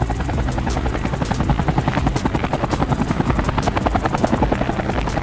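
Helicopter rotor blades chopping in a fast, steady beat as the RC helicopter is flown.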